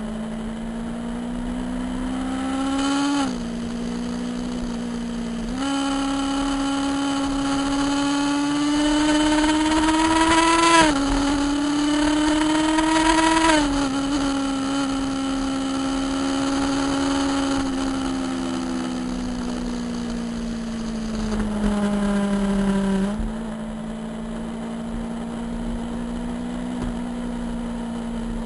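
Motorcycle engine running under way, its pitch climbing and falling several times with sudden steps up and down as it accelerates and changes gear.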